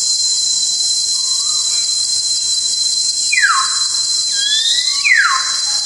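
Steady high shrill of insects in forest ambience, with a bird giving loud whistled notes: two that glide sharply downward, a little over three and five seconds in, and a rising one between them.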